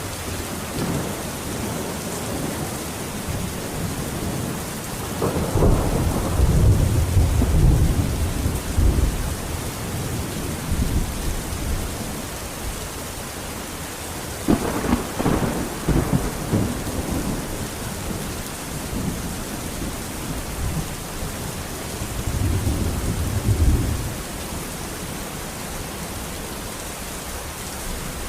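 Steady rain with three rolls of thunder: a long low rumble about five seconds in, a sharper crack and rumble near the middle, and a shorter rumble later on.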